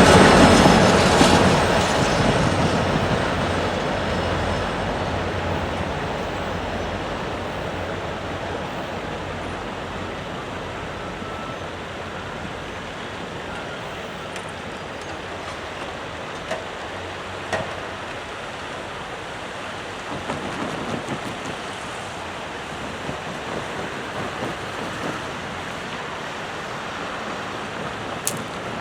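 A train rolling past and moving away. Its rumble is loud at first and fades over about ten seconds into a steady low background noise, with a few faint clicks later on.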